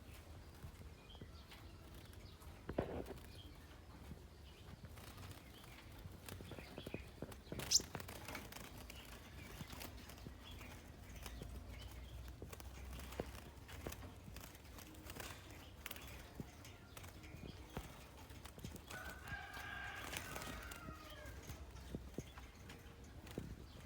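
Faint, scattered sharp ticking calls of a scarlet-backed flowerpecker, with one brief louder sharp note just before a third of the way in and a short pitched call about four-fifths of the way through.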